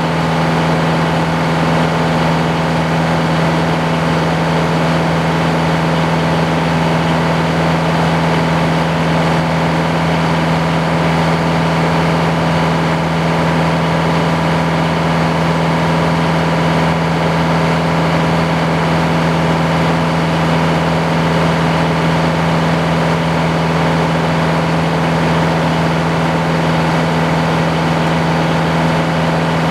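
Sawmill engine running steadily at constant speed, loud and unchanging throughout.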